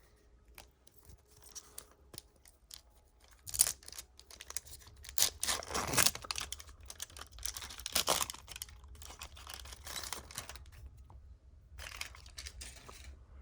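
Foil trading-card pack wrapper being torn open and crinkled: a few faint clicks, then from about three and a half seconds in a run of sharp rustling, tearing bursts, the loudest around the middle.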